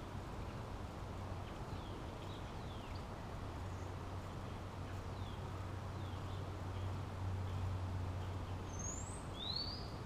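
Wild birds chirping faintly a few times, with two louder, quick rising chirps near the end, over a steady low hum and outdoor background noise.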